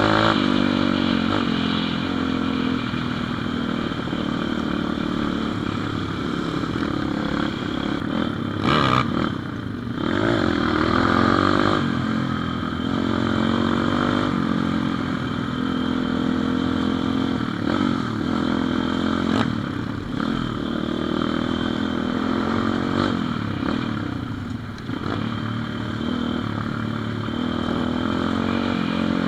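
Pit bike engine running under way, its pitch rising and falling again and again as the throttle is opened and closed, with a brief knock about nine seconds in.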